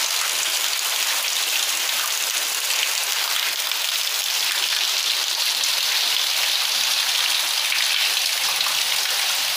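Heavy rain falling steadily on a roof and concrete slab, with runoff pouring from a gutter spout.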